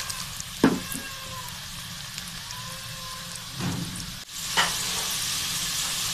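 Gram-flour-battered potato fingers deep-frying in hot oil, a steady sizzle that grows louder a little past the middle. A few brief knocks come through the sizzle.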